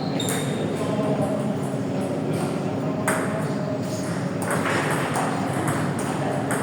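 Table tennis balls clicking off bats and tables in a quick, irregular patter, a few strikes louder than the rest, over a steady low hum.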